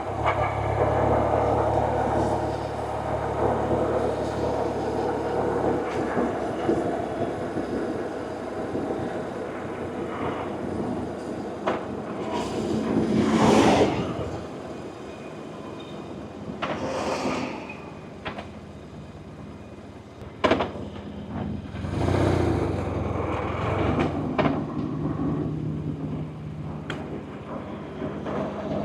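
BMW R1100RT's boxer-twin engine running on the road, clearest in the first few seconds, then mixed with road and traffic noise. A loud rushing swell comes about halfway through, with smaller ones later.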